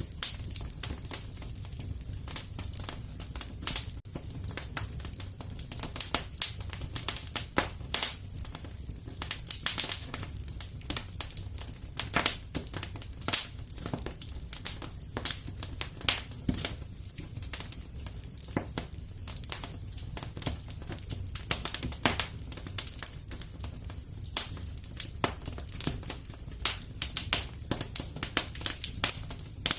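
Wood fire crackling and popping: many irregular sharp snaps over a steady low rumble of the burning fire.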